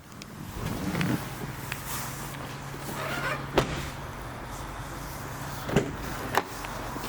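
Car engine coming to life about a second in, then running with a steady low hum. Three sharp clicks or knocks sound during the running, the last two close together near the end.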